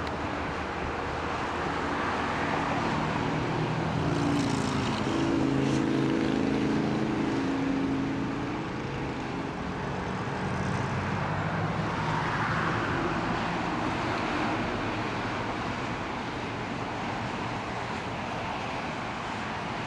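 Steady freeway traffic noise, with the engine of a passing vehicle swelling and fading about four to eight seconds in.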